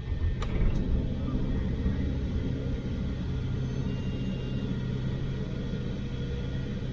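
Steady low rumble of a truck's diesel engine running, with two short clicks about half a second in.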